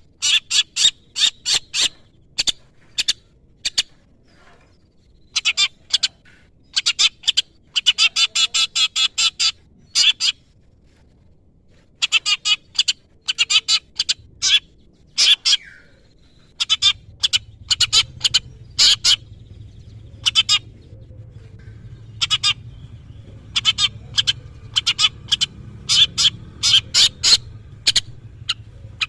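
Long-tailed shrike (cendet) singing a song full of mimicry of other birds: quick runs of short harsh notes in bursts, with brief pauses between them. A low steady hum comes in a little past halfway.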